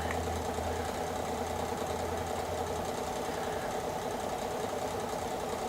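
Electric fan running with a steady whir. A low hum underneath it drops away about three seconds in.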